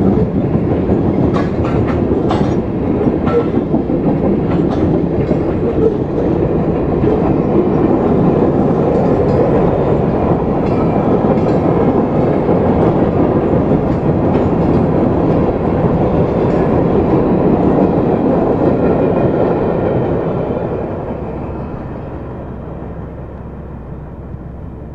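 Wheeling & Lake Erie freight cars rolling past a grade crossing: a steady rumble of wheels on rail with scattered clicks over the rail joints. It fades from about 20 seconds in as the end of the train goes by.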